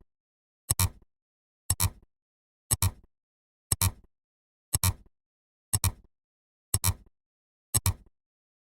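A short, sharp double click repeating evenly once a second, nine times, with silence between the clicks.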